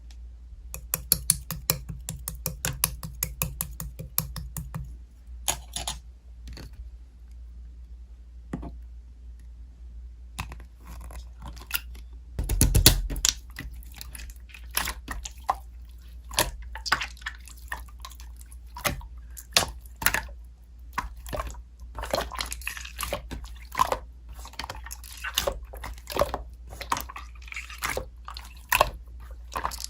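Slime being squeezed and worked by hand, making wet clicks and pops: a quick even run of clicks for the first few seconds, a few scattered ones, then dense crackling and popping from about ten seconds on.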